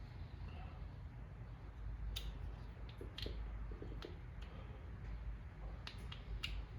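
Scattered light clicks and taps, about eight of them, from hands working small parts, over a low steady hum.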